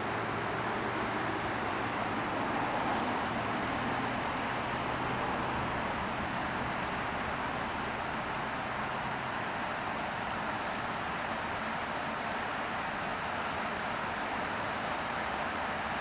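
Vacuum cleaner running steadily: an even rushing hiss with a faint high whine, and a low hum that fades out about halfway through.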